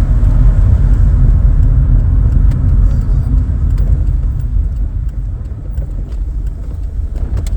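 Vauxhall Cavalier's 2.0-litre C20NE four-cylinder engine running under way, with steady road and tyre rumble, heard from inside the cabin. The sound eases a little in the middle and builds again, and there is a single sharp click near the end.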